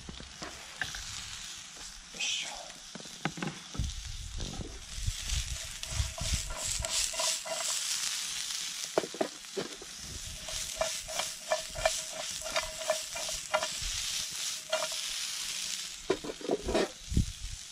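Sliced onion, mushrooms and garlic sizzling in oil in a frying pan over a small wood fire, the hiss swelling midway. Repeated clicks and knocks run through it as the pan is stirred and shaken.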